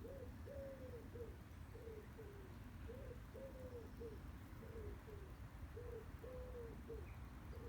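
A dove cooing: a phrase of several low coo notes, repeated about three times.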